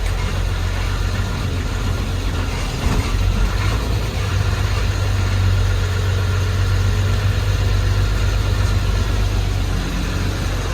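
Diesel engine of heavy earthmoving or farm machinery running steadily at a constant speed.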